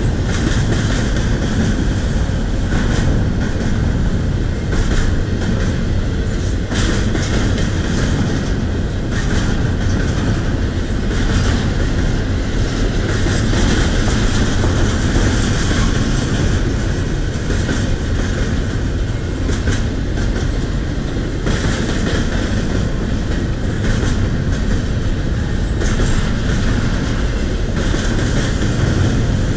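Double-stack intermodal freight cars rolling past: a steady, loud rumble of steel wheels on rail, broken by repeated clicks as the wheels cross rail joints.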